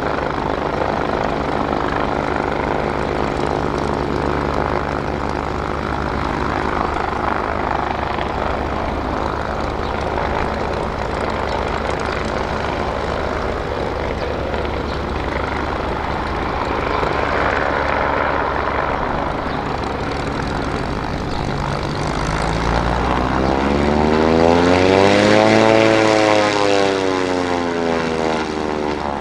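Kawasaki BK117 C-1 helicopter in flight, the sound of its twin turboshaft engines and four-bladed rotor running steadily. About three quarters of the way through, the tone rises and then falls in pitch as it grows louder and then fades again.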